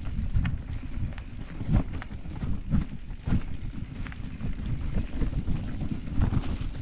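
Wind buffeting the microphone of a camera riding along on a mountain bike, with a low rumble and irregular sharp knocks and rattles as the bike runs over rough trail.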